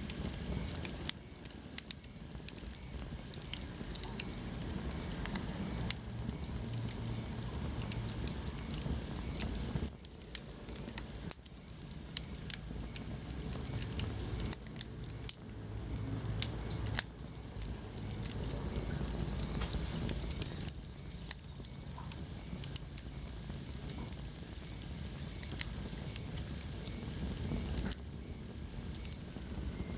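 Wood fire crackling in a fireplace: frequent sharp pops and snaps of burning logs over a steady low rumble and hiss of the flames.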